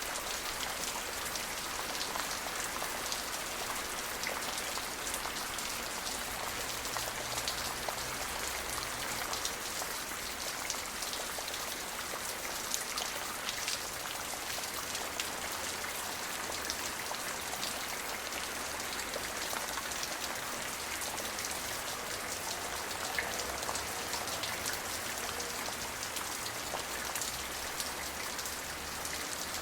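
Steady rain falling, a dense even hiss with many small individual drops pattering on a surface.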